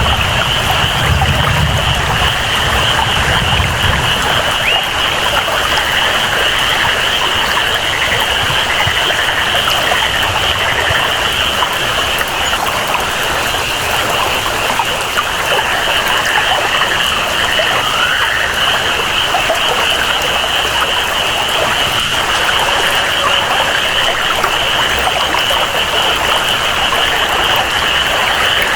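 Rainforest ambience: steady rain and flowing water under a continuous high-pitched jungle chorus. A low rumble fades out about four seconds in.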